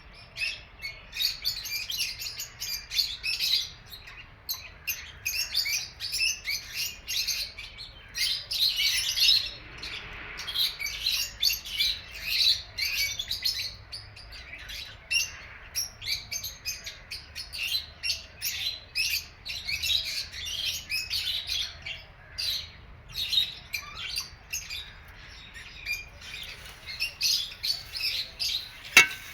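Lovebirds chirping rapidly and continuously in high, busy calls, with one sharp click near the end.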